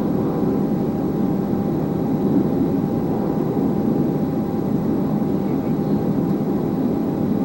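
Steady interior noise of an Airbus A320 taxiing, its jet engines at idle with the air-conditioning rush. It is an even, unchanging roar with a faint steady whine above it.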